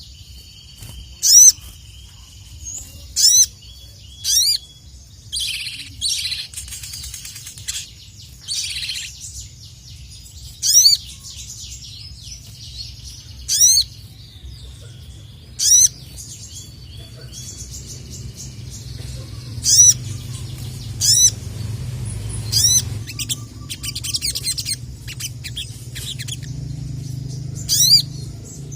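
Sogon (ruby-cheeked sunbird) singing: sharp, high, sweeping notes repeated every second or two, broken by a few fast chattering runs, over a steady low background rumble.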